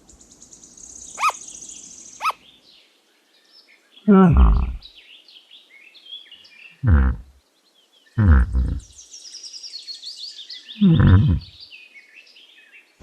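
Sugar glider calling: a raspy high hiss with two short squeaks at first, then four loud, short calls that each fall in pitch, with faint chirps between them.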